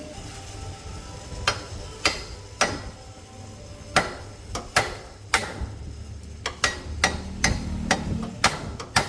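Hammer striking metal, about a dozen sharp blows at an uneven pace, each with a short ring, coming faster in the second half. This is typical of knocking at a motorcycle's main-stand pivot shaft.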